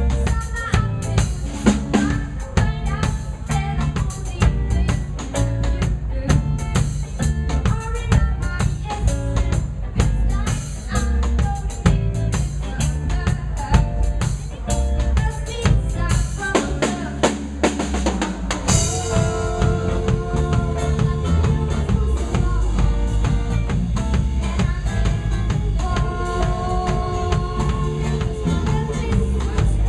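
Live band playing a song with a steady drum kit and bass groove. About two-thirds of the way through, a drum fill leads into a cymbal crash, and held chords come in after it.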